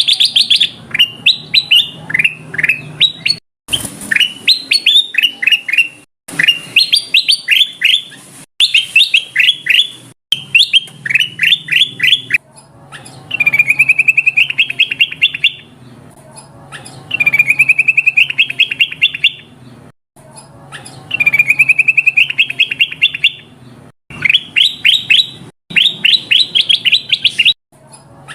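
Kutilang emas, a bulbul, singing repeated lure-call phrases: bursts of quick falling chirps alternating with slightly rising trills, each phrase about two seconds long with short pauses between. It is a looped recording with abrupt cuts and a faint low hum underneath, played to lure wild bulbuls.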